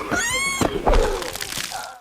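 High-pitched, animal-like cartoon vocalization: a wavering squeal in the first half second, followed by shorter noisy sounds around a second in, then fading out.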